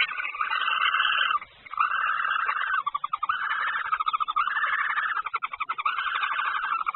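Barn owl giving a series of about six harsh, hissing rasps, each about a second long with short breaks between, the later ones breaking into a rapid rattle: the snoring-hiss calls that barn owls make at the nest around a food delivery.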